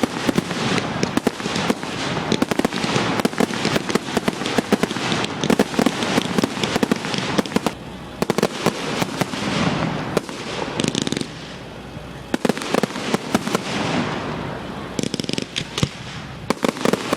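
Fireworks display going off: a dense, rapid run of crackles and bangs that thins out briefly about eight seconds in and again around eleven to twelve seconds.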